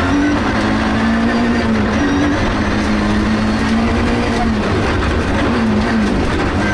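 Rally car engine running hard, heard from inside the cabin, its pitch stepping up and down several times with throttle and gear changes over steady tyre and road noise from the dirt surface.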